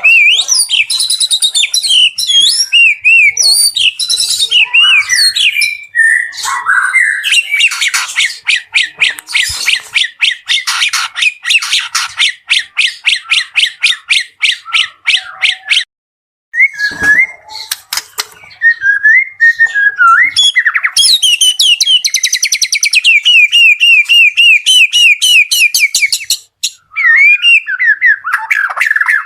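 White-rumped shama (murai batu) singing loudly and continuously: varied whistled phrases and harsh squawks, with long runs of rapid repeated notes in the middle and again later. There is a brief pause about 16 seconds in.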